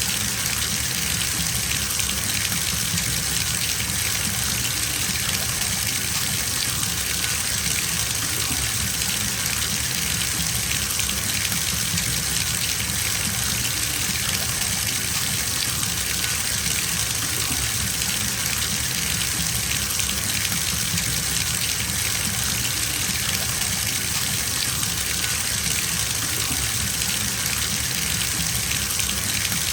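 Water running from a tap into a bathtub as it fills, a steady splashing rush that does not change.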